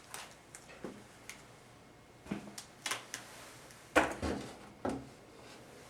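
Small transmission parts being handled and put into a bag on the workbench: a series of irregular short clicks and knocks, the loudest about four seconds in.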